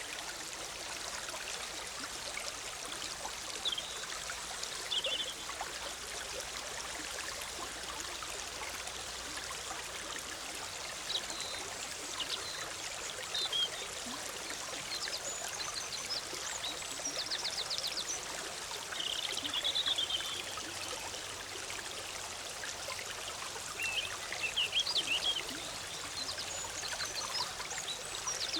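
Forest stream babbling steadily over rocks, with songbirds chirping now and then above it, including a few short rapid trills and a warbling phrase.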